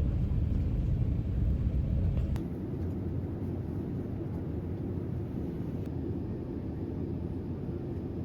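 Steady low rumbling noise, a little quieter from about two seconds in.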